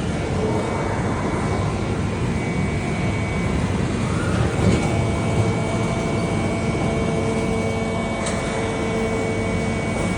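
Haas VM-3 CNC vertical mill spindle running its warm-up cycle: a steady mechanical running noise with a high whine throughout, and further steady tones joining about halfway through, with a few faint ticks.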